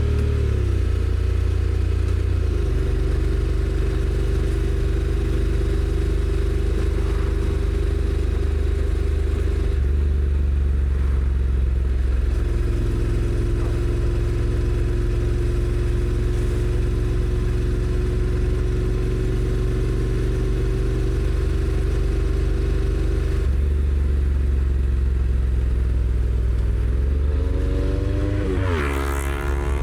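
Honda NC750X's parallel-twin engine running under way, its note holding steady for stretches and stepping in pitch several times as the dual-clutch gearbox changes gear, over a steady rush of wind and road noise. Near the end the pitch briefly dips and rises again.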